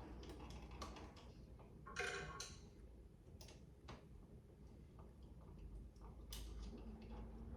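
Faint scattered clicks, with a short scrape about two seconds in, from a flat-head screwdriver turning the screws of a wall outlet by hand.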